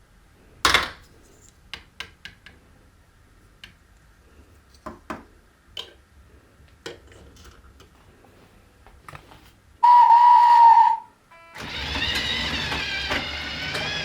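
Marbles clicking against hard plastic, a sharp click just under a second in and lighter scattered clicks after it. Near the end a steady electronic tone sounds for about a second, then music begins.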